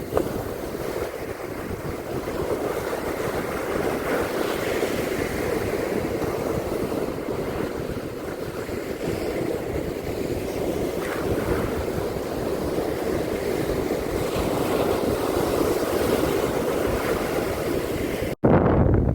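Ocean surf washing steadily onto a beach, with wind on the microphone. Near the end the sound cuts out for an instant, then comes back as a louder low rumble of wind buffeting the microphone.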